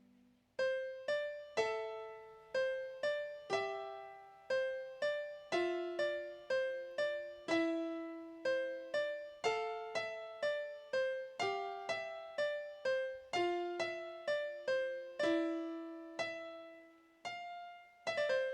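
Background music: a slow, gentle melody of single piano notes, each struck and left to ring away, about two a second.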